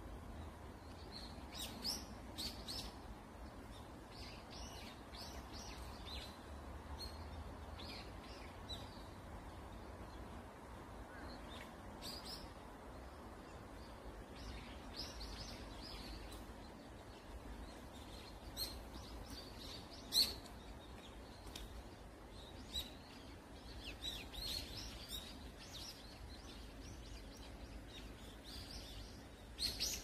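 Birds chirping and calling in the trees: many short, high chirps scattered throughout, some overlapping, with one sharper call about twenty seconds in. A faint, steady low rumble lies underneath.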